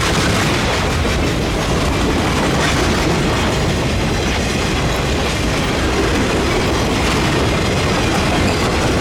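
Freight train cars rolling past close by, a loud, steady clatter of wheels on rail.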